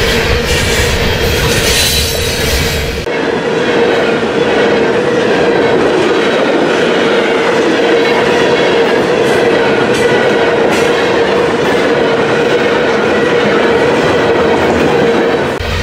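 Loaded potash covered hopper cars of a heavy freight train rolling past at track speed: steady wheel-on-rail noise with a constant ringing tone and a few sharp clicks. The low rumble drops away abruptly about three seconds in and comes back near the end.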